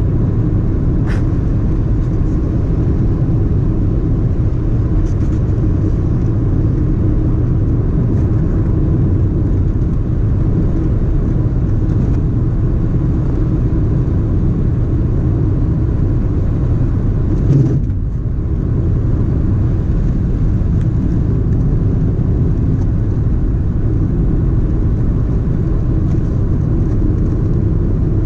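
Car driving along a road: a steady low rumble of engine and tyre noise, with a brief click about a second in and a short dip in the noise near 18 seconds.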